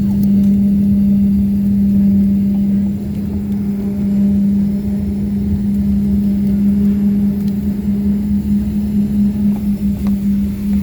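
Steady cabin noise inside a Boeing 777 rolling on the ground after landing: a strong low hum with rumble beneath, wavering slightly near the end.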